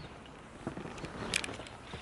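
Scattered small knocks and rustles over a low background hiss, with one sharper click about a second and a half in.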